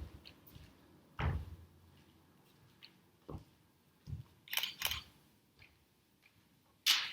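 A few scattered low thumps and sharp clicks a second or two apart over quiet room tone, the loudest a sharp click near the end.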